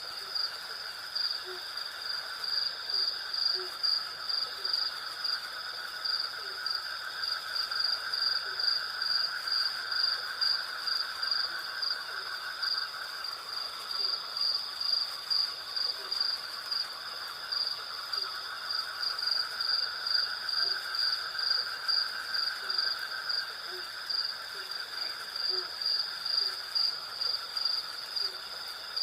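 Night insect chorus of crickets and cicadas: a high chirping that pulses about twice a second over steady trilling, with a lower buzzing chorus beneath. Short low notes repeat every second or two under the insects.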